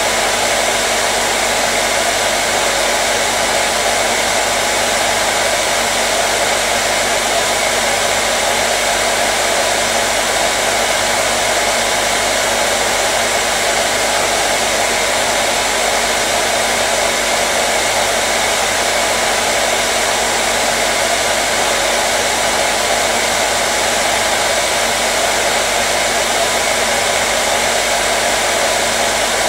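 Hair dryer running continuously at a steady speed: an even blowing whir with a faint motor hum, no change in pitch or level.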